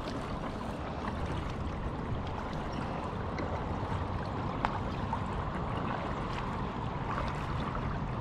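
Steady water noise around a kayak on a calm lake, with one short click about four and a half seconds in.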